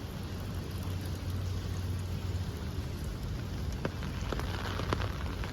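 Steady rain falling on the ground, with a few sharp drips or splats in the second half and a low hum that fades out about halfway.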